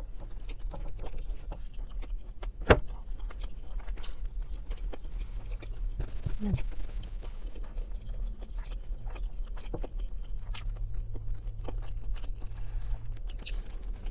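A person chewing a mouthful of vegan chicken in gravy, with wet mouth clicks and smacks throughout and one sharper click about two and a half seconds in. A steady low hum runs underneath.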